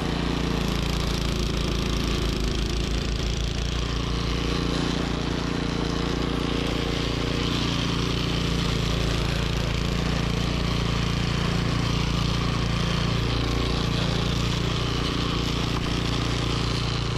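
Troy-Bilt snowblower engine running steadily at a constant pitch.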